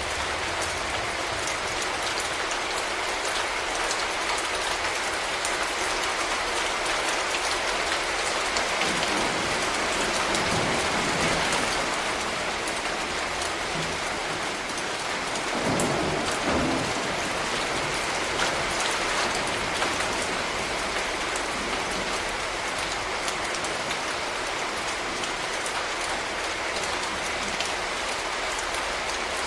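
Steady rain falling on a street, a dense even patter of drops, with a brief low rumble a little past the middle.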